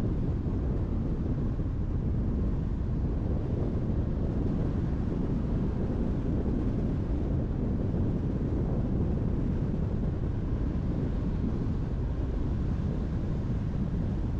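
Steady road and wind noise of a car driving at speed, an even low rumble and hiss with no change.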